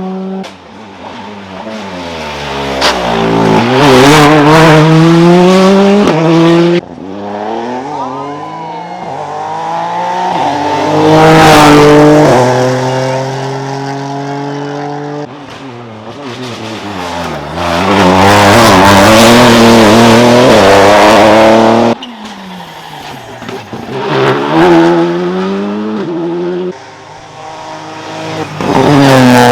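Rally cars driven hard past one after another, each engine revving high and dropping back through gear changes and braking, with tyre squeal in places. The sound cuts abruptly between passes several times.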